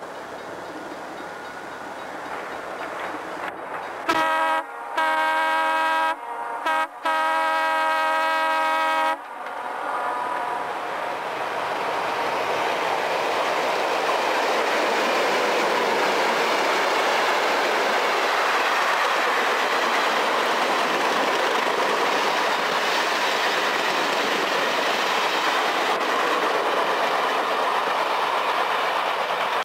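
Rio Grande Zephyr passenger train, led by EMD F-unit diesel locomotives, approaching and passing. The engine sound builds, and about four seconds in the air horn gives four blasts, the third short and the last about two seconds long. Then a loud, steady din of locomotives and rolling cars continues as the train goes by.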